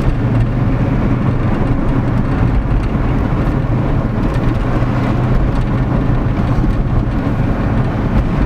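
C5 Corvette's 5.7-litre V8 running at a steady pitch as the car drives along.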